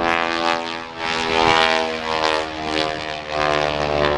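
Propeller-driven aerobatic biplane's engine droning, its level swelling and dipping a few times as it maneuvers.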